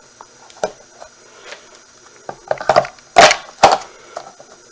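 Hard objects being handled and set down: scattered knocks and clatters, with two loudest knocks a little over three seconds in.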